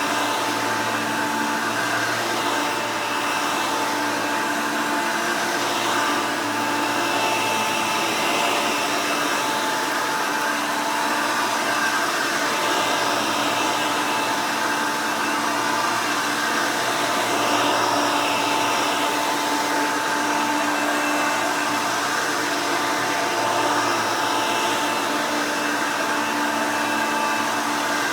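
Custom Hoover Elite upright vacuum cleaner running steadily: a constant rush of airflow with a steady whine from its motor.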